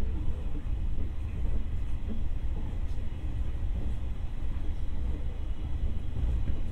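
Electric commuter train standing at a station platform with its doors open: a steady low rumble from the train's running equipment, with faint station ambience.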